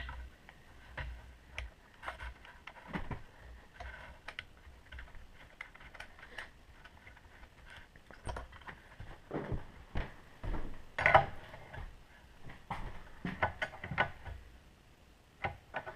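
Irregular small metallic clicks and taps of hand tools and parts as a part is fitted back onto an air compressor and tightened down.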